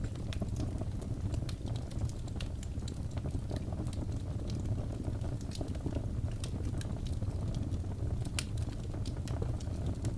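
Fire in a fireplace crackling: many small, sharp, irregular pops over a steady low rumble.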